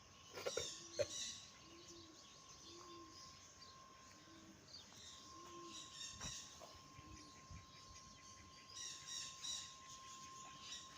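Faint birds chirping outdoors in short bursts: a cluster near the start, another about halfway, and another near the end.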